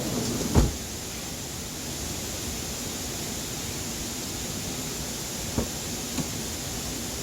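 Steady rushing noise, with one sharp knock about half a second in and two lighter knocks near the end.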